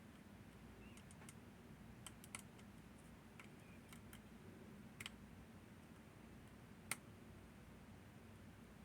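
Faint, scattered clicks and ticks of picking tools working the levers of a Northern Telecom NE-22 six-lever lock, a few seconds apart, the sharpest about seven seconds in, over a low steady hum.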